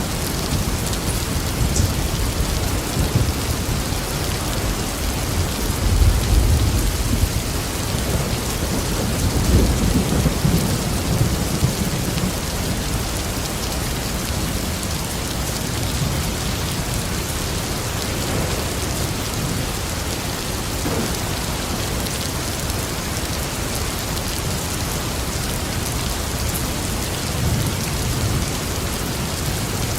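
Steady rain pouring, with deep rolling rumbles of thunder about six seconds in and again from about nine to twelve seconds, and a weaker rumble near the end.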